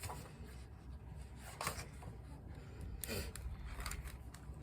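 Faint rustling and light taps of a picture book being handled and opened, paper sliding against paper, over a low steady room hum.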